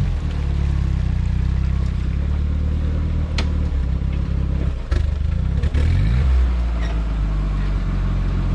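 Jeep engine running on a muddy off-road trail, its pitch rising and falling as the throttle is worked, with two sharp knocks about three and five seconds in.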